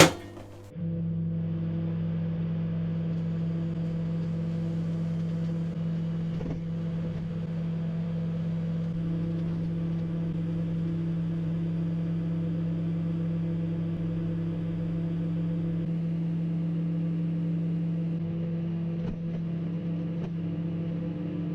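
Microwave oven running on full power with an apple inside: a steady electrical hum that starts about a second in, just after a sharp click.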